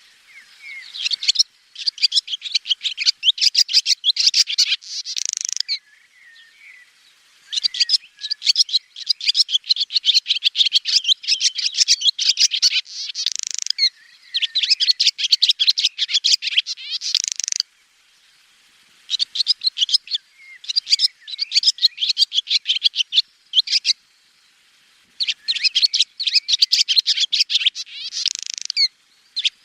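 Swallow singing in rapid, high twittering phrases of a few seconds each, with brief pauses between phrases.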